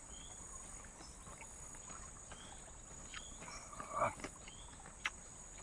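Night insects such as crickets trilling steadily at a high pitch, with short chirps over them. A louder knock comes about four seconds in, and a sharp click near the end.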